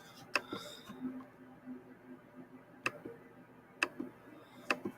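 Four sharp single clicks at irregular intervals, over a faint steady low hum.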